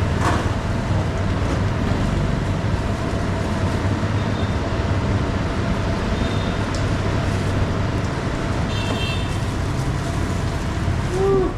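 Steady motor-vehicle traffic noise: a constant low engine hum under a wash of road noise, with a few short high tones and a brief voice near the end.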